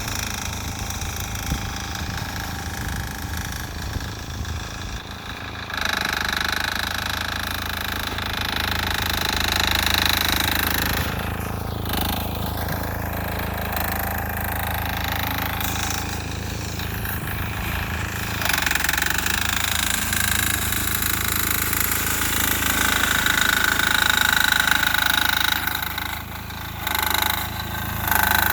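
6 hp air-cooled single-cylinder diesel engine of a Sears Suburban garden tractor running steadily with a hard, knocking beat, working under load. A hiss in the upper range rises and falls over it.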